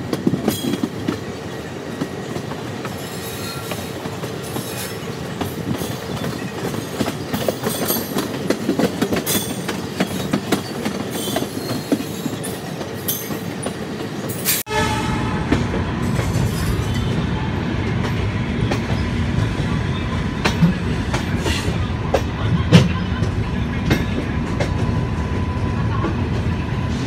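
Shatabdi Express passenger train running through a station yard, its wheels clattering over points and rail joints in quick, irregular clicks. About halfway through, after a cut, this gives way to a louder, steadier rumble of the train running on.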